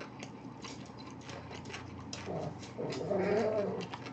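Close-miked chewing of a mouthful of gimbap: wet mouth clicks and smacks throughout. About two seconds in comes a wavering hummed 'mmm' from the closed mouth, the loudest part.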